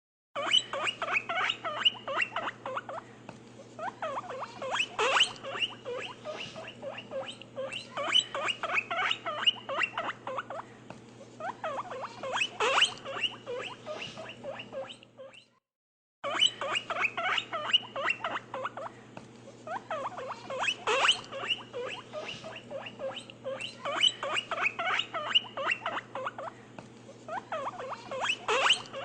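A group of small animals squeaking and peeping in quick high-pitched clusters that swell and fade every couple of seconds, over a steady low hum; the sound cuts out for a moment about halfway through, then starts again.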